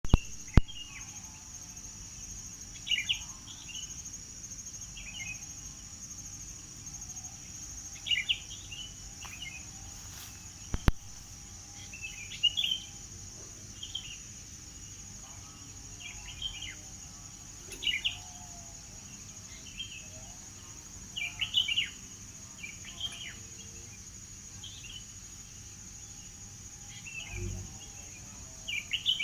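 A songbird chirping in short, repeated phrases every second or two over a steady high-pitched insect buzz. A sharp click sounds near the start and another about eleven seconds in, with a low thump near the end.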